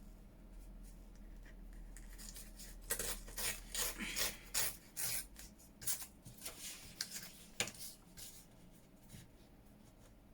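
Paper rustling and rubbing as printed cut-outs are shuffled and slid across the work surface, a run of irregular scrapes from about three seconds in to about eight seconds.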